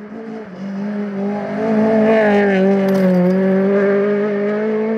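Honda rally car's engine held at high revs under full throttle on a gravel stage. It gets louder about a second and a half in, and its pitch sags slightly past the middle before climbing again.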